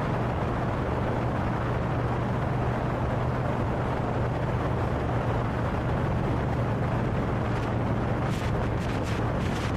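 Honda Fury's V-twin engine running steadily at cruising speed, mixed with a steady rush of wind and road noise on the microphone. A few short crackles come through near the end.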